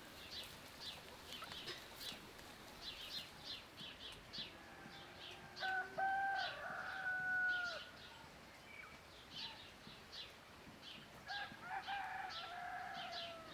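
A rooster crowing twice, each crow about two seconds long, roughly six and twelve seconds in. Small birds chirp throughout.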